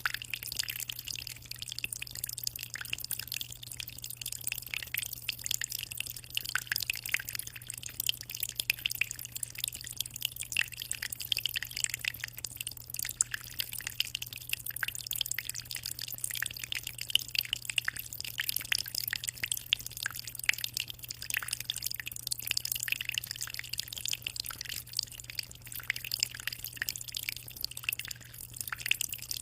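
Aquarium water trickling and splashing in a dense, steady patter of small drips and bubbles, over a steady low hum.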